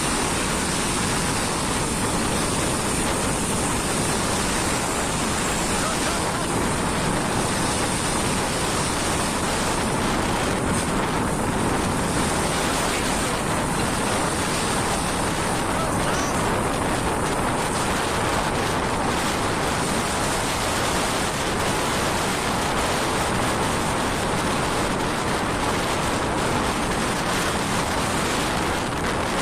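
Steady rushing noise of a truck on the move, with tyres hissing on a wet road and wind noise.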